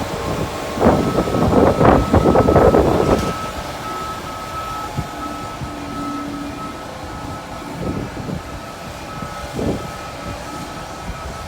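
A heavy farm vehicle's reversing alarm beeping over a running diesel engine. A loud rush of noise lasts about two seconds, starting about a second in.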